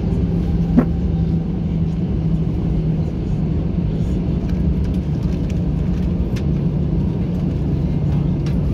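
Steady cabin noise of an Airbus A321-200 taxiing after landing: a constant low hum from the engines at idle under a rushing background, with one sharp click about a second in.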